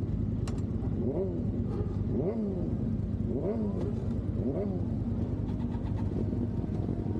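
Superbike engine idling, then revved in four short throttle blips, each pitch rising and falling back quickly, before it settles to a steady idle.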